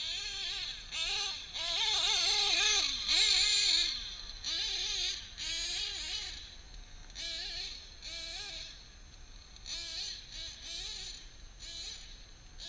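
Drag-modified Novarossi .28 nitro engine of a Kyosho 1/7 Nitro Scorpion truggy revving in repeated short bursts. A high whine rises and falls in pitch with each burst of throttle, louder in the first few seconds and fainter toward the end.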